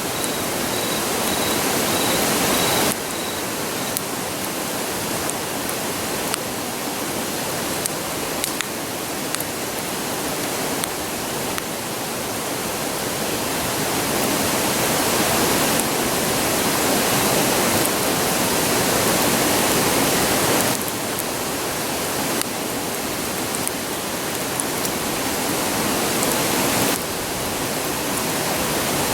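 A river rushing with a steady roar, with a few faint crackles from the campfire.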